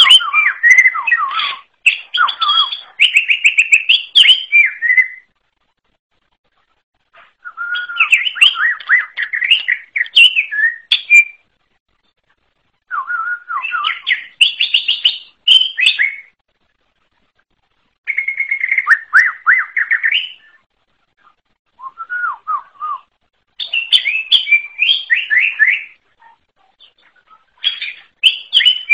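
Green leafbird (cucak ijo) singing: about six phrases of quick, varied whistled and chirping notes, each lasting a few seconds with short pauses between them.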